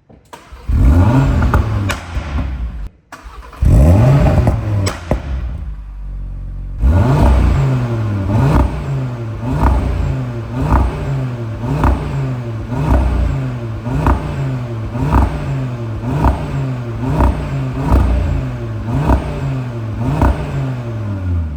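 Audi RS3's 2.5-litre turbocharged five-cylinder engine fires up with a rising flare and is revved twice. It is then blipped in quick, even bursts about twice a second, with a sharp crack from the exhaust at the top of many blips.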